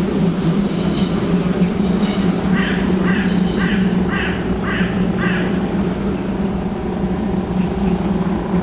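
Steady low hum of a train standing at the station platform. Over it, a bird gives six short calls in quick succession, about two a second, a few seconds in.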